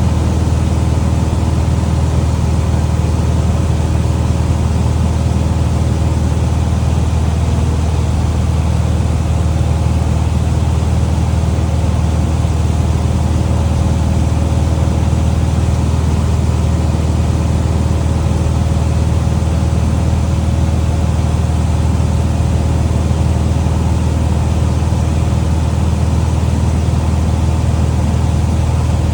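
Small plane's piston engine and propeller droning steadily in the cabin, a loud low hum with several steady tones above it and no change in pitch.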